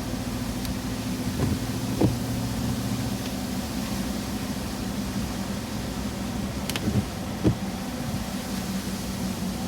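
Truck engine and road noise heard inside the cab while driving, a steady low drone, with a couple of short knocks about two seconds in and again near the end.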